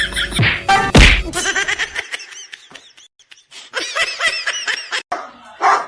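A person laughing in quick repeated bursts, with a loud sudden outburst about a second in.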